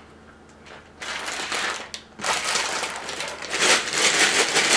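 Plastic Lego parts bag being torn open and crinkled by hand, starting about a second in, pausing briefly, then growing louder.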